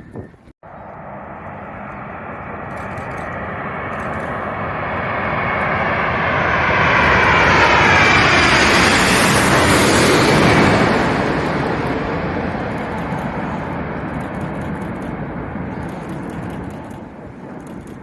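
Jet airliner on its landing approach passing low overhead. The engine noise builds over several seconds and peaks with a whine sliding down in pitch as it goes past, then fades away.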